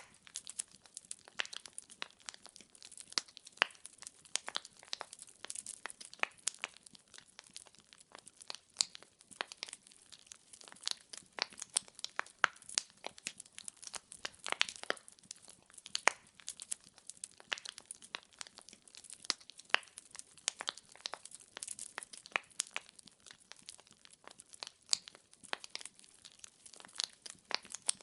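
Wood fire in a fireplace crackling: burning logs give a dense, irregular run of sharp pops and snaps over a soft hiss.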